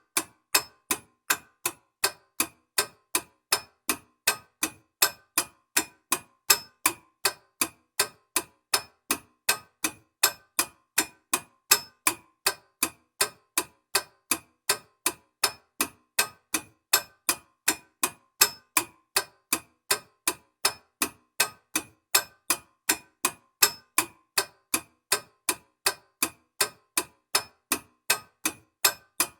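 Clock ticking: sharp, evenly spaced ticks, a little over two a second, starting abruptly.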